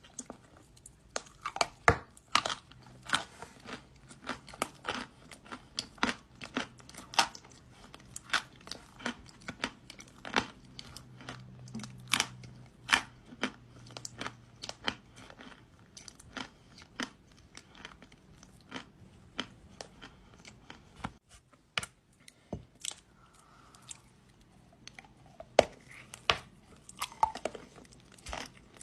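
Dry kaolin clay being bitten and chewed close to the microphone: irregular crisp crunches, about one or two a second.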